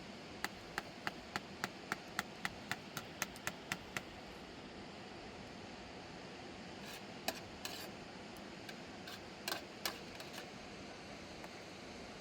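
Hammer knocking, about a dozen sharp, evenly spaced strikes at roughly three a second, then a few scattered knocks and clatter, over a steady hiss.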